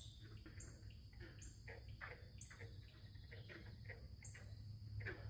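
Faint insect sounds: a steady high drone with a short, very high chirp repeating roughly once a second, over scattered soft ticks.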